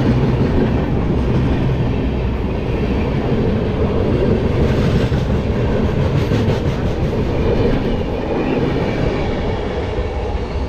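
Sealdah–Amritsar Express passenger train running past on the adjacent track: a loud, steady rumble of coaches rolling by, with wheels knocking over rail joints now and then.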